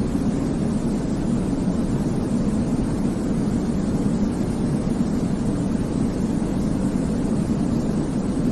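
Steady sleep white noise: a deep, even rushing hiss weighted toward the low end, with no change in level.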